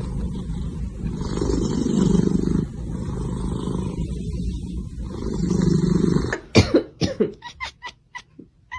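An animal's rough, low rumbling vocalising that swells twice, then a string of short, sharp squeaky sounds that come further and further apart.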